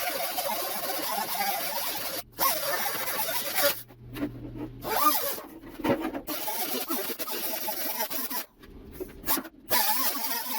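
Fender sheet metal being cut out for a patch piece: a rasping cutting noise that stops and starts again several times.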